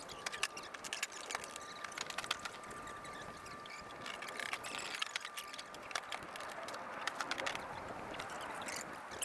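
Tools and materials being packed away on a building site: a run of small, irregular clicks, knocks and clatters, with a faint steady high tone for the first two-thirds.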